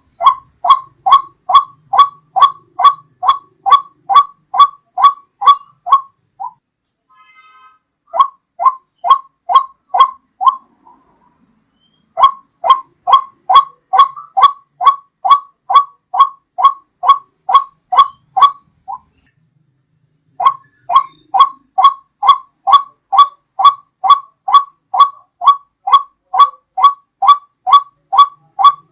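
White-breasted waterhen (ruak-ruak) calling as a bird-lure recording: a loud call repeated about three times a second in runs of several seconds, broken by a few short pauses.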